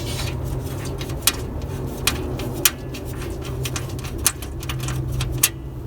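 A few sharp clicks and knocks of plastic air-intake parts being fitted together by hand, over a steady low hum.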